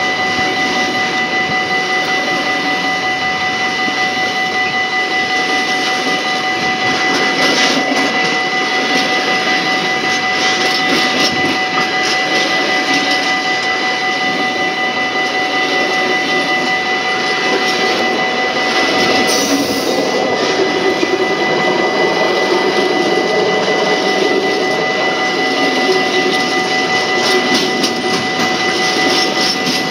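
Empty container flat wagons of a long freight train rolling past over a level crossing: a steady rumble of steel wheels on rail with scattered clicks and knocks, over a steady high-pitched ringing tone.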